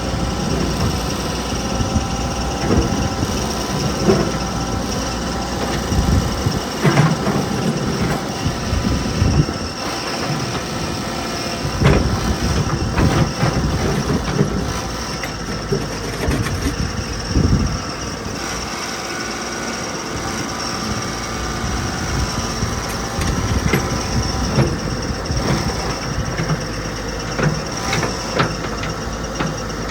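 Cat 416B backhoe loader's turbo diesel engine running steadily while the loader and backhoe are worked, with irregular clanks and knocks from the machine's moving parts.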